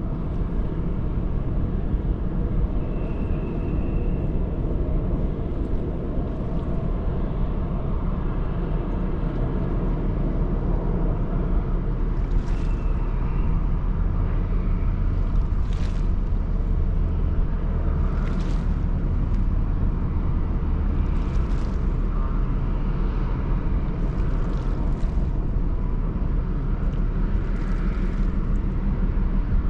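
Steady deep rumble of the Ro-Ro passenger ferry BLUE GRACE's engines and machinery, with brief hissing surges every few seconds in the second half.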